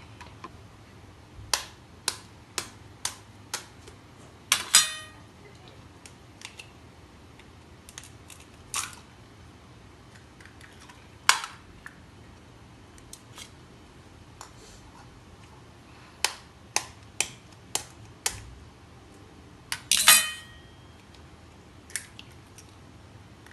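Eggs being tapped against a bowl's rim and cracked open. A few sharp taps about half a second apart lead up to a louder crack with a short ring from the bowl, and this happens twice, with a few single knocks in between.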